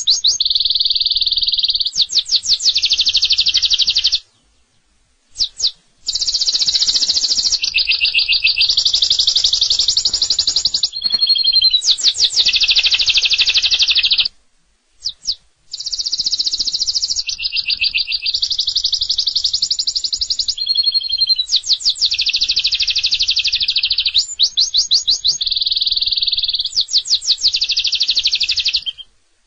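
Domestic canary singing long, fast rolling trills of rapidly repeated high notes, with quick sweeping notes between them. The song breaks off briefly twice.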